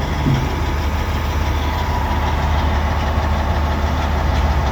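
A heavy engine idling steadily, a constant low rumble.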